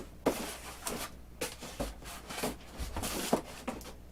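Light knocks and rubbing as foam packing pieces and model-airplane parts are handled and fitted into a box.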